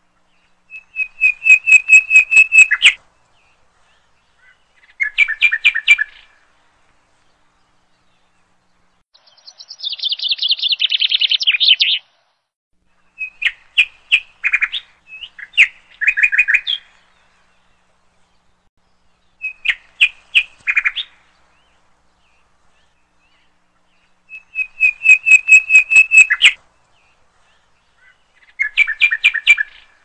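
Small bird chirping in runs of rapid, sharp, high notes, each a second or two long, about seven runs with silent gaps between them. The run near the middle is higher and buzzier than the rest.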